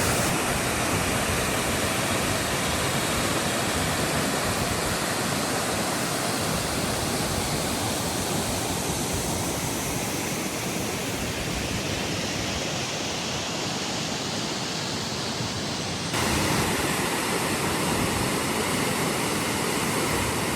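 Waterfall rushing: a steady, even noise of falling water. It turns slightly louder and brighter about three quarters of the way through.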